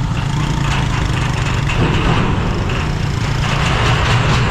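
A vehicle engine running steadily, most likely the motorcycle's, with crackling and clicking noise over it.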